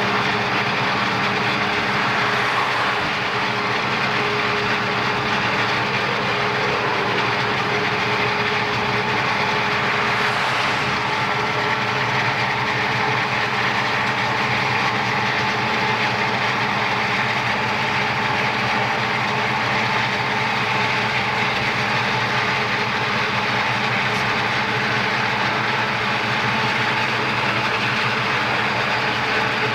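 Steady mix of a moving car's road and wind noise and a diesel freight train running alongside: the locomotives' engines and the rumble and clatter of the train on the rails, heard from inside the car.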